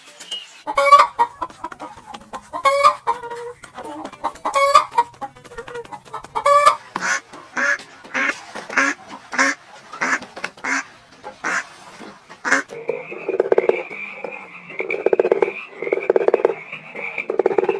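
Chickens clucking and calling: separate calls at first, then a run of short clucks about two a second, and near the end a steady high note over lower repeated calls.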